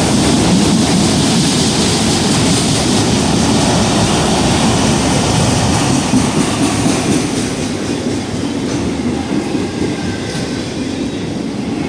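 CSX freight train of autorack cars passing close by: a loud, continuous rumble and rattle of wheels on rail that eases slightly about halfway through.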